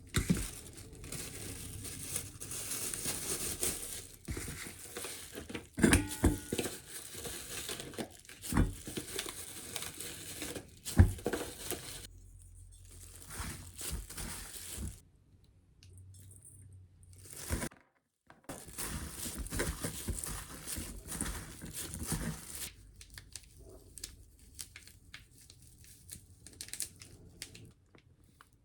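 Crinkling and rustling, up close, broken by three sharp knocks in the first half and a few quiet seconds past the middle.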